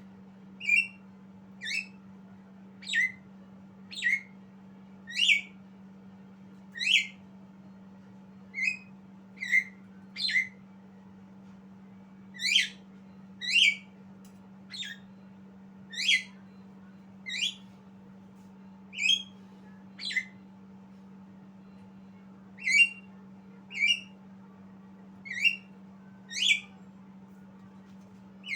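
Javan myna calling: short, sharp, squawky notes repeated about once a second at uneven intervals, some of them falling in pitch. A steady low hum runs underneath.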